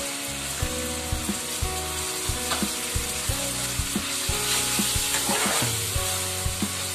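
Chopped tomatoes and onions sizzling in hot oil in a kadai, stirred with a spatula that knocks and scrapes against the pan several times a second.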